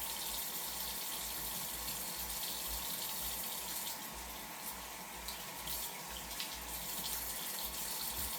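Bathroom tap running steadily into a sink, with a few faint clicks from about halfway through.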